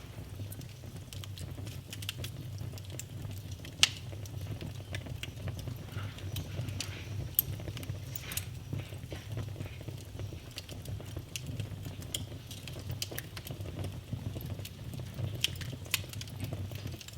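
Wood fire burning in a fireplace: a steady low rumble of flames with frequent small crackles, and two sharp pops about four and seven seconds in.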